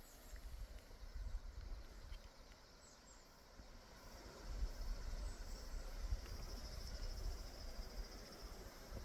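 Wind rumbling in gusts on the microphone, with insects trilling high and steady in the background, louder in the second half.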